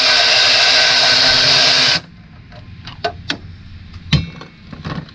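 A cordless power tool running steadily as it spins out a 10 mm bolt on a variable valve timing solenoid, cutting off about two seconds in. A few light metal clicks and taps follow.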